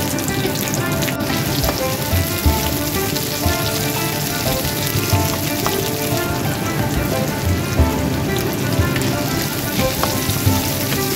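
Chopped onion frying in hot oil with tempering seeds and lentils: a steady sizzle with scattered crackles, under background music. A spatula stirs the pan near the end.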